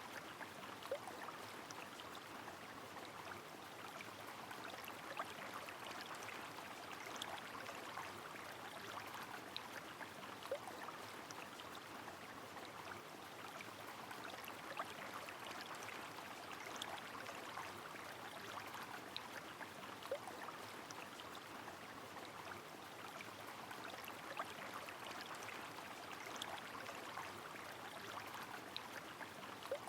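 Rain falling over a flowing river: a faint, even wash of running water with scattered single drop ticks throughout.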